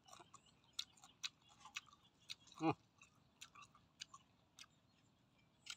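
Faint close-up chewing and mouth clicks of a person eating snail meat, with scattered small clicks and a brief falling vocal sound about two and a half seconds in.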